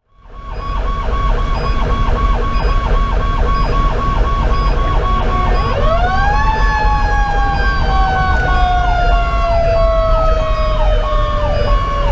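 Fire engine running code: an electronic siren in a fast yelp, joined about six seconds in by a Federal Q2B mechanical siren that winds up and then slowly winds down, over the low rumble of the truck's Detroit Series 60 diesel. The yelp slows to a wail pattern near the end.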